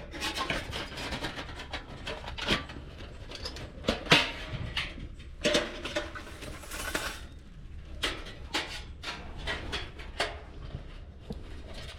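Irregular knocks, clinks and scrapes of camping gear being handled, with one longer scraping or rustling stretch about halfway through.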